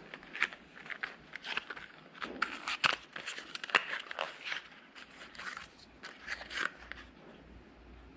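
A run of irregular light clicks and crunches, like small parts or packaging being handled, thinning out near the end.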